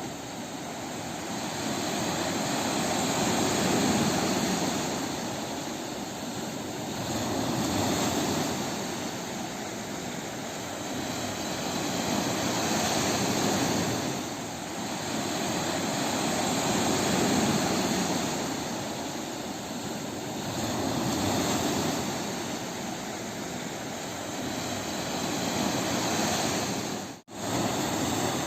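Ocean surf breaking on a beach: a continuous rush of waves that swells and ebbs every four or five seconds, with six or so surges. Near the end the sound drops out for a split second.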